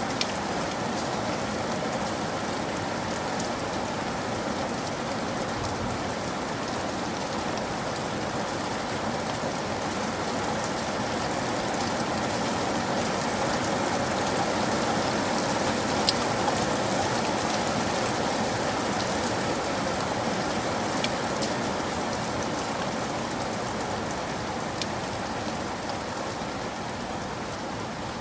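Steady rainfall: an even, dense hiss of rain on surfaces with scattered sharp drop ticks, swelling slightly in loudness around the middle.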